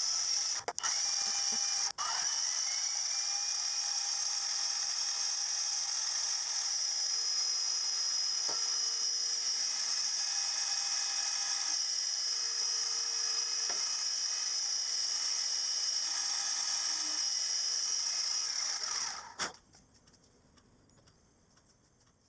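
A workshop machine-tool motor starts with a click, spins up with a rising whine, and runs at a steady high whine. About nineteen seconds in it is switched off and winds down.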